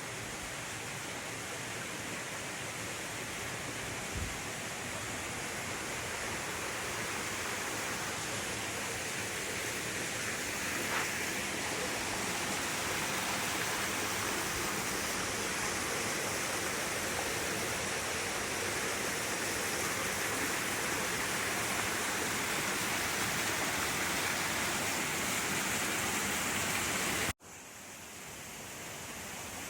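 Steady rush of a large waterfall, Mukabaki Falls, a dense even roar of falling water that slowly grows louder. It cuts out for an instant near the end and swells back in.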